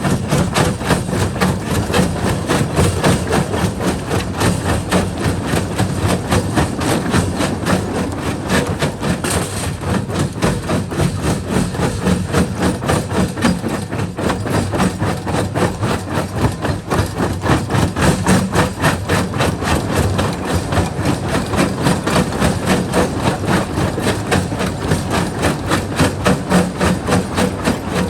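Jaw rock crusher crushing rock: a steady rapid, regular knocking of stone breaking between the jaws over the low, steady drone of the machine.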